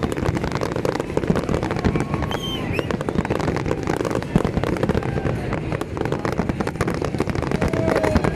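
Fireworks display: a dense, unbroken crackle of many fireworks bursting and popping in quick succession.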